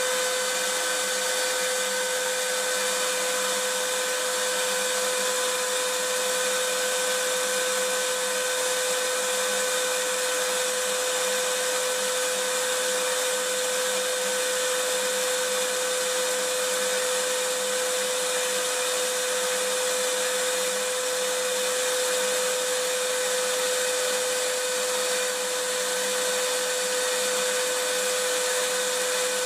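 Vacuum cleaner running steadily: an even rushing hiss with a steady motor whine on top, unchanging.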